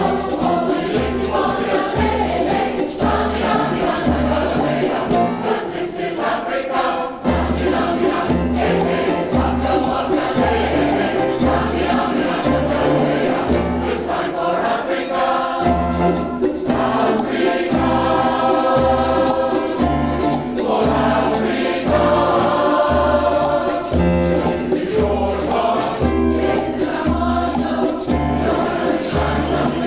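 Community choir singing an upbeat, rhythmic song in several parts, over a steady low beat of about one pulse a second and fast high percussive ticks.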